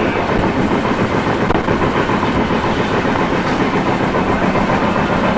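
Indian passenger train running at speed, heard from inside a coach: a steady, loud noise of wheels on the rails and the moving carriage.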